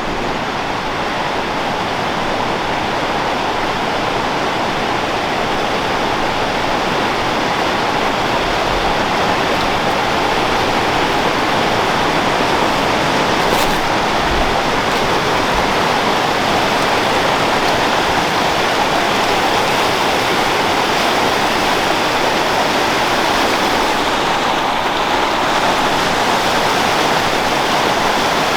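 Creek water flowing, a loud, steady wash of noise.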